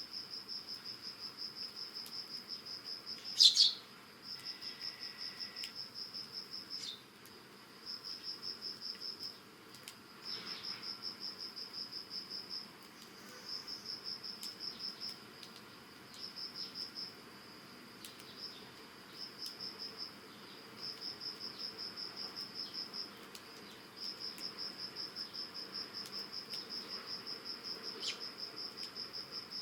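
A cricket chirping in rapid, high-pitched pulsed trills lasting one to three seconds, with short pauses between them. A single short, loud sparrow chirp about three and a half seconds in.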